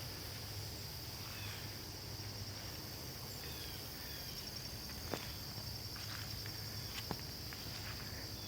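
Steady, high-pitched chorus of trilling insects in woodland, with a few short falling chirps early on and several sharp clicks about five and seven seconds in.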